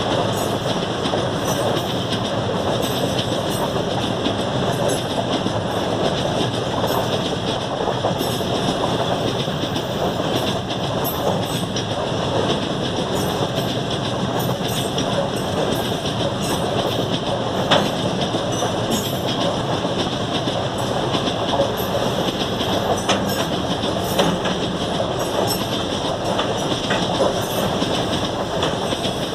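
Freight train wagons rolling past: a steady rumble of steel wheels on rail, with scattered sharp clicks from the wheels over the track. The loudest click comes about eighteen seconds in.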